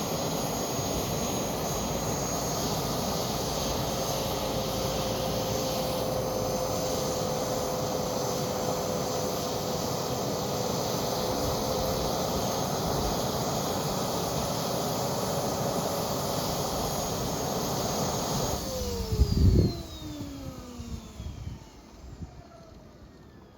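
Model jet's turbine engine running steadily with a high whine. About 18 seconds in it shuts down: the whine slides down in pitch and the noise dies away as the turbine spools down. There is a loud thump just after the shutdown begins.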